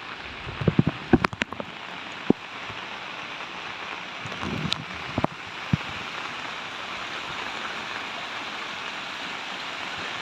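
Steady rain falling, an even hiss, with a cluster of sharp knocks about a second in and a few more around five seconds.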